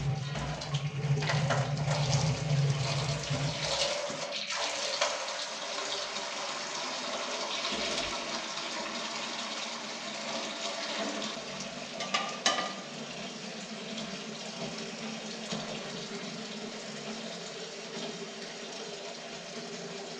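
Running water, a steady splashing with a few light knocks; a low hum underneath stops about four seconds in.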